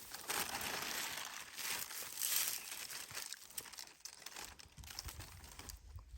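Dry leaf litter and brush crunching and crinkling as someone moves through dry-season forest. The rustling is densest over the first few seconds, loudest about two seconds in, then thins to scattered crackles.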